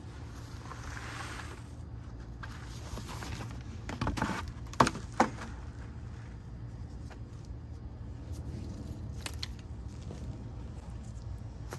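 Scattered rustling and handling noises over a steady low hum, with two sharp knocks about half a second apart about five seconds in.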